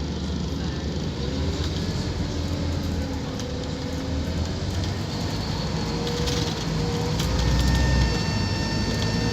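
Scania K230UB Omnilink bus's five-cylinder diesel engine pulling under acceleration, with a whine that rises in pitch and light rattles, growing louder toward the end.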